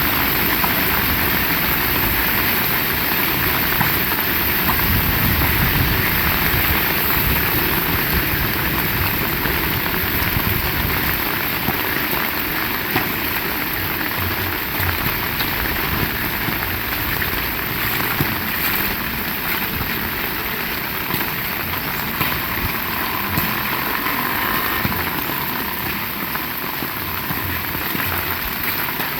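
Heavy rain falling steadily: a dense, even hiss of rain with a low rumble underneath, a little louder in the first half.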